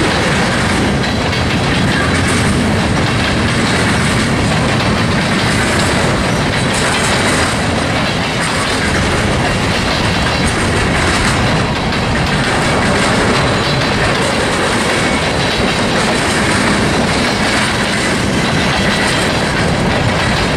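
Freight train's cars rolling steadily past, a loud, even noise of steel wheels running on the rails.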